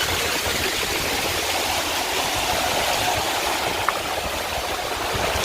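Steady rush of river water cascading over rocks at a small waterfall, with one sharp click about four seconds in.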